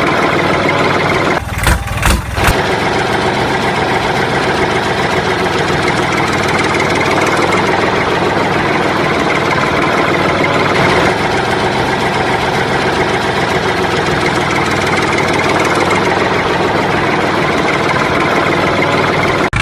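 A small engine running steadily, broken by a brief dip and a few knocks about two seconds in.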